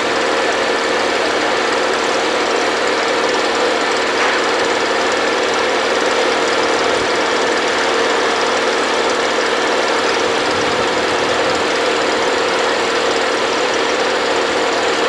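A machine engine running steadily: a constant loud hum with a steady mid-pitched tone that does not change.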